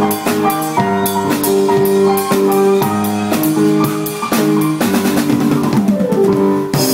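Small live band playing an instrumental: held melody notes from violin and keyboard over a drum-kit beat. A loud wash of noise, like a cymbal crash, comes in near the end.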